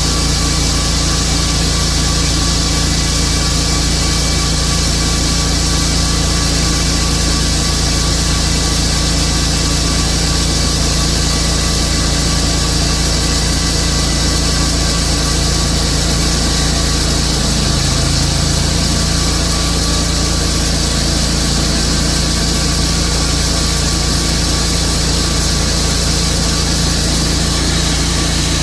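Sawmill running steadily under load, its saw cutting a slab lengthwise through a large silver maple log.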